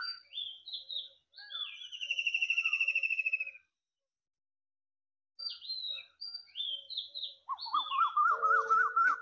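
Birds chirping and singing: several short falling whistled notes, a rapid trill about two seconds in, and a fast warbling phrase near the end, with a second or two of silence in the middle.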